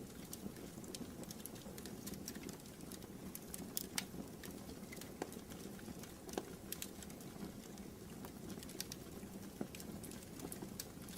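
Wood fire burning in a fireplace: irregular sharp crackles and pops over a steady low rumble of the flames, with a louder pop about four seconds in.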